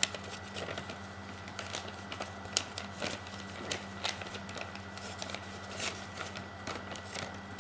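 Square origami paper being creased by pinching with the fingers: scattered small crinkles and taps, over a steady electrical hum.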